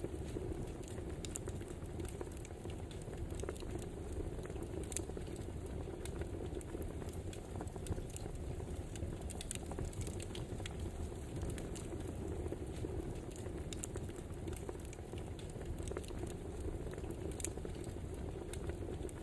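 Wood fire burning: a steady low rush with irregular sharp crackles and pops.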